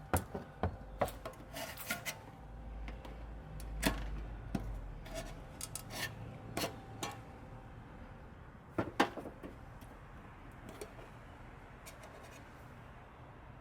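Handling sounds from working at the lid of a metal can of carburetor parts cleaner: scattered clicks, taps and rubbing, with two sharper knocks about nine seconds in, then quieter.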